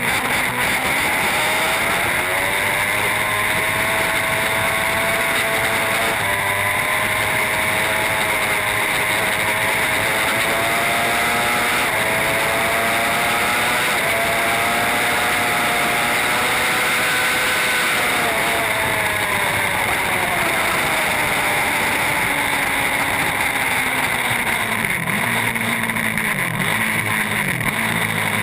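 Superbike racing motorcycle engine pulling hard through several upshifts, its pitch climbing in steps for most of the stretch, then falling as it slows, with quick dips and rises near the end as it downshifts. Heavy wind rush runs under the engine throughout.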